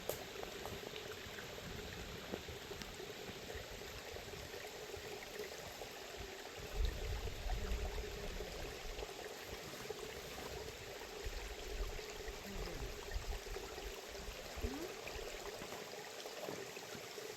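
Steady sound of water flowing or bubbling, with a few bouts of low rumble, the strongest about seven and twelve seconds in.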